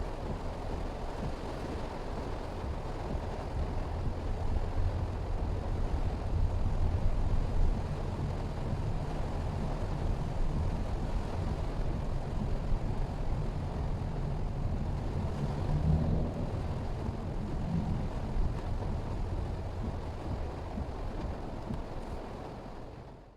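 A 2023 Mitsubishi Xpander being driven, heard as a steady low rumble of engine and road noise. The sound cuts off abruptly at the end.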